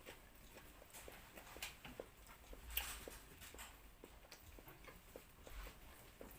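Faint eating sounds from a bread sandwich with prosciutto and lettuce: many small irregular clicks and ticks, with one louder crackle about three seconds in.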